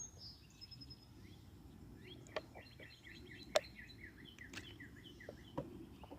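Songbirds singing: a high thin trill near the start, then a quick run of short repeated chirps from about two seconds in. A few sharp clicks stand out over the birdsong, the loudest about halfway through.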